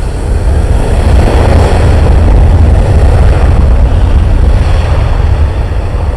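Jet airliner's engines at high power, loud with a heavy low rumble, swelling about a second in and slowly easing toward the end as the plane passes close by on takeoff.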